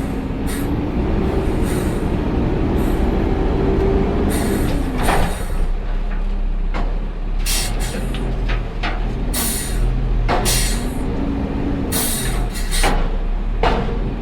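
Peterbilt 520 garbage truck running, its engine pitch rising and falling over a steady low rumble, with many short high hisses.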